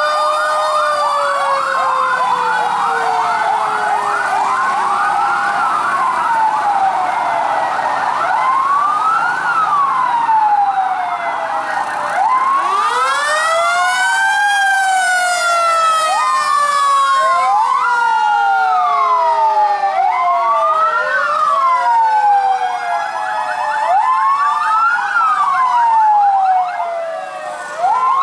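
Several fire truck sirens sounding at once, their wails rising and falling out of step with one another. A fast yelping siren pattern joins them at the start and again near the end.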